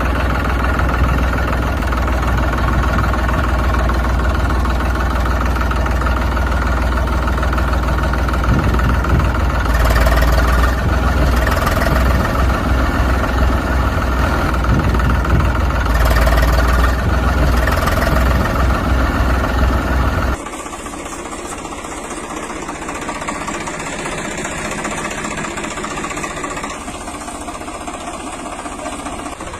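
A motor vehicle engine idling steadily with a strong low rumble. About two-thirds of the way in it cuts off abruptly and a quieter, steady engine sound takes over.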